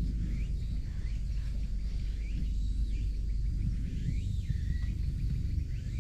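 Outdoor ambience of birds giving short rising-and-falling whistled calls every second or so, over a steady low rumble.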